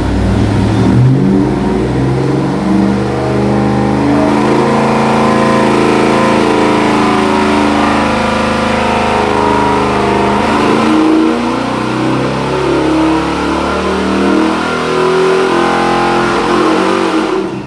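Ford 460 big-block V8 with Edelbrock Pro Flow 4 fuel injection making a dyno pull: the engine revs up sharply about a second in and runs loud and hard under load, then drops off suddenly near the end as the pull ends.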